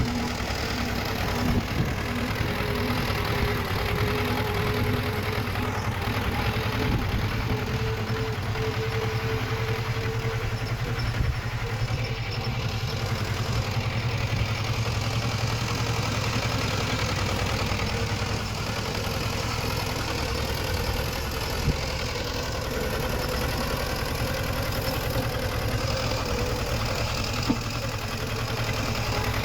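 Diesel engine of heavy earthmoving machinery running steadily, with three short sharp knocks along the way.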